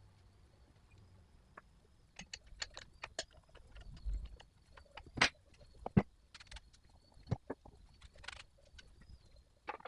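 Scattered clicks and knocks of hard objects being handled, like tools and parts picked up and set down, with a few sharper knocks in the middle seconds. A faint steady high whine runs underneath.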